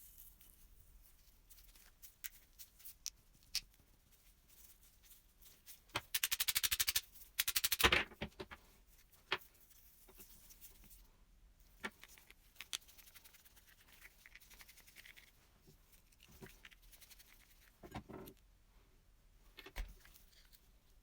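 Small metal parts of an old oil lamp handled during restoration: scattered clicks and taps, with a burst of rapid rattling clicks about six seconds in.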